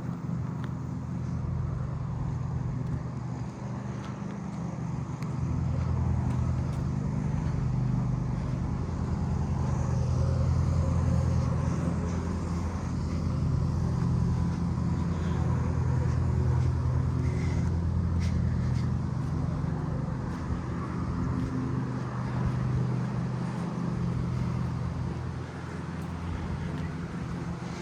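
Petrol lawn mower engine running steadily, growing louder for much of the time and then easing off as it moves about.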